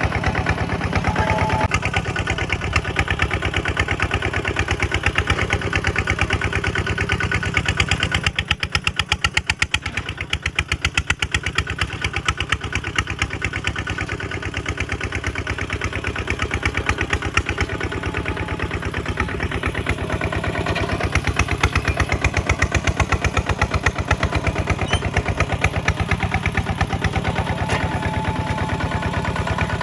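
Kubota single-cylinder diesel tractor engine running, its separate firing beats close together and even; it eases off for a few seconds about eight seconds in, then picks up again.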